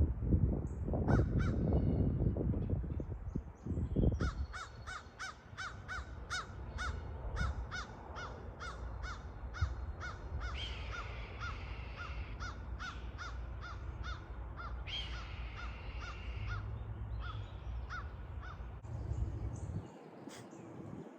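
Crows and birds of prey calling during a chase: a long run of short, evenly repeated calls, about three a second, broken by two longer, higher held cries. A loud low rumble fills the first few seconds.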